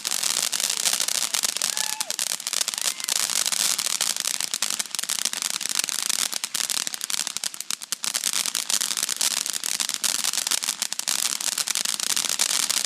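Dragon Tears consumer firework crackling steadily: a dense, rapid stream of small pops and sizzle.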